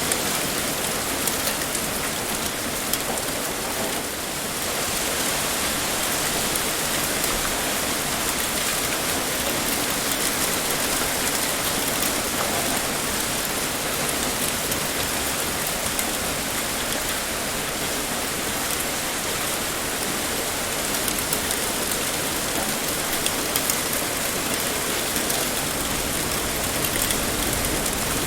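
Steady heavy rain pouring down, an even hiss with small crackling drop hits on top.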